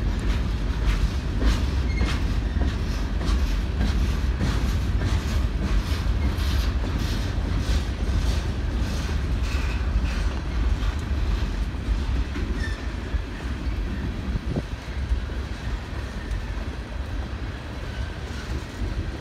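Freight train's boxcars rolling past with a low rumble, their wheels clacking in a regular rhythm over the rail joints. The clacking fades out about halfway through, leaving the rumble.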